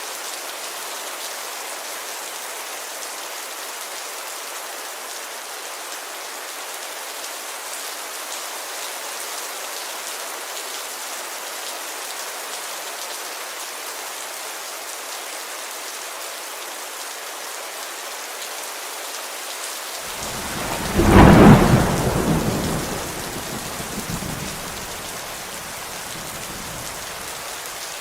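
Steady rain falling on a window pane. About twenty seconds in, a clap of thunder breaks out, the loudest sound here, and rumbles away over the next few seconds.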